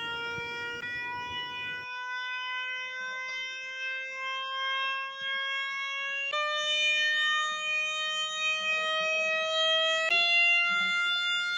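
A signal-generator tone played through the speaker of a Rubens tube: one tone with strong overtones whose pitch climbs slowly, jumping up a step about a second in, again around six seconds in and again around ten seconds in. The audio frequency is being raised through the tube's resonances.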